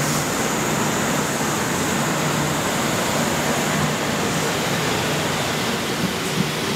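Kintetsu 2800 series resistor-controlled electric train pulling away from a station platform: steady running and motor noise as the cars roll past the platform, with a couple of sharp wheel clicks near the end.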